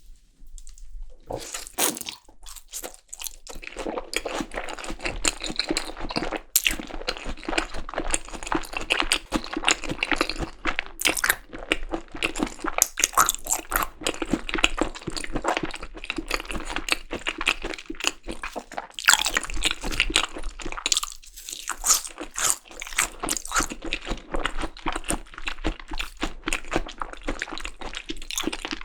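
Close-miked chewing of yukhoe, Korean seasoned raw beef tartare, with wet, crisp crunching mouth sounds in a dense, irregular run. It starts about a second in and breaks off briefly past two-thirds of the way through.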